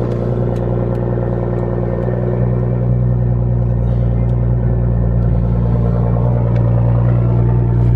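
Toyota A90 Supra engine idling steadily just after a cold start, a smooth even idle.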